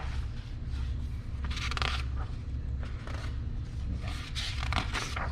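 Paper rustling, loudest twice, about one and a half seconds in and again near the end: the pages of a picture book being turned.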